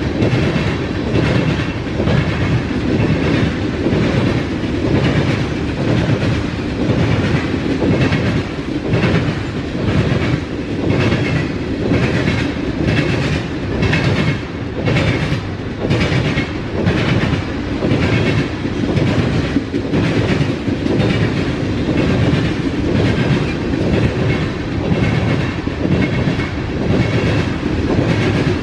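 Freight cars of a CSX train rolling past, with a continuous rumble and a repeating clatter of wheels over the rail joints.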